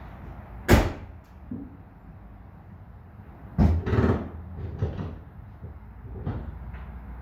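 Ford Coyote 5.0 V8 in a Fox-body Mustang idling steadily, with several sharp thumps over it: a loud one just under a second in and a louder cluster a little past the middle, then a few lighter knocks.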